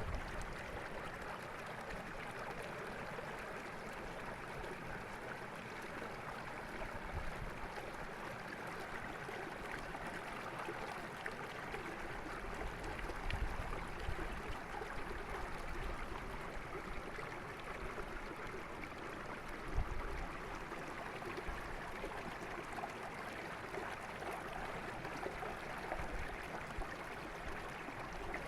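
Derna River water flowing steadily, a continuous even rush of stream water. A few brief low bumps sit under it, the strongest about twenty seconds in.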